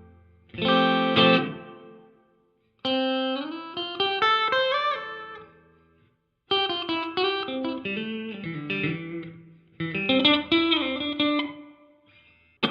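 Electric guitar played through a Donner Yellow Fall II pedal on its room reverb with the decay set halfway: a strummed chord, then three runs of picked notes. Each dies away quickly in a short reverb tail.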